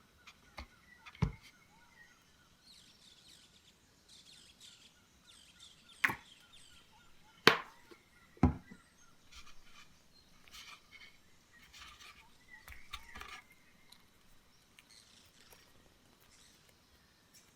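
Sharp knocks on a wooden surface from hands-on bread-making work, four loud ones (one early, then three close together in the middle) with small clicks and taps between, over faint chirping.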